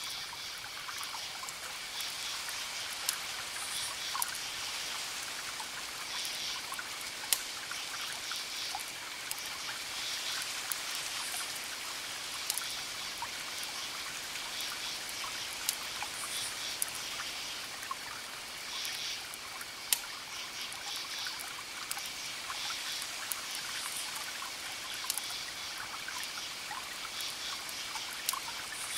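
Wood fire crackling: a steady hiss broken by sharp single pops every few seconds.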